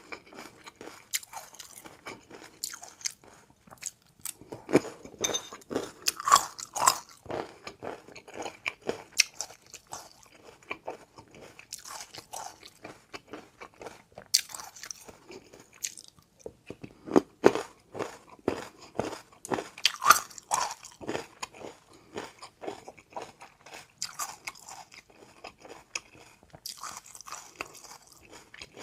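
Close-miked eating: a person biting and chewing food, with dense irregular crunches and clicks and louder bursts of crunching every few seconds.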